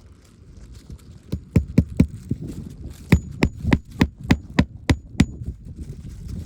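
Hammer striking metal repeatedly: four quick blows about a second in, then a steadier run of about eight, some with a light metallic ring.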